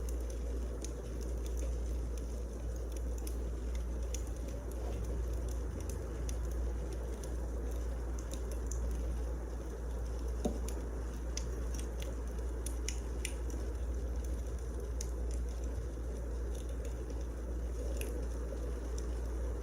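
Wood fire burning in a fireplace: a steady low rush with scattered, irregular crackles and pops, one a little louder about halfway through.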